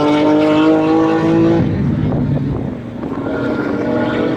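Race car engine accelerating on track, its pitch climbing. About a second and a half in the note breaks off into a rougher stretch, then it climbs again in the last second or so.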